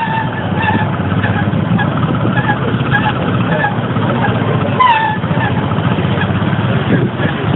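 Motorcycle engine running steadily while under way, with voices in the background and a brief falling call about five seconds in.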